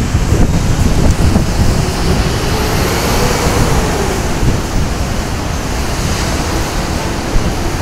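Loud, steady rumbling noise of a PNR train passing close by, with a faint engine tone that rises and then falls around the middle, and wind buffeting the phone's microphone.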